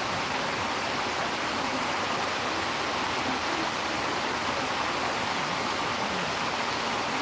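Storm outdoors: a steady, even rushing hiss of wind and rain with no separate gusts, drops or knocks standing out.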